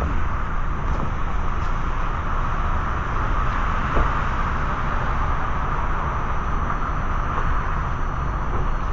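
Steady low rumble and rushing wind of a motorcycle under way, heard from the rider's own microphone.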